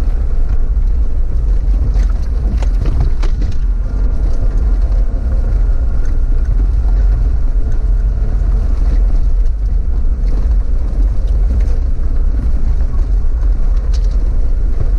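4x4 SUV's engine running steadily as it crawls through packed snow, a deep rumble heard from inside the cabin, with a few knocks about two to three seconds in.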